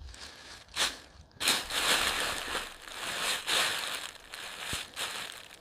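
Armfuls of leaves being packed into a shelter, crunching and rustling: a short crunch just before a second in, then steady rustling from about a second and a half.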